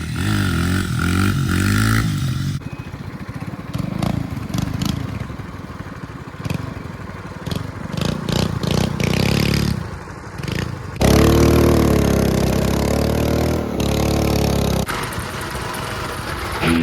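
Coleman mini bike engines, small four-stroke singles, revving and running with the pitch rising and falling as the bikes are ridden, the sound changing abruptly a few times, with some knocks and clatter in the middle.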